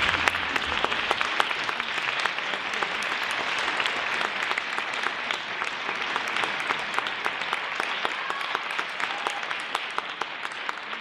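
Audience applauding, a dense patter of many hands clapping that slowly fades. The last low note of the music dies away just as the applause begins.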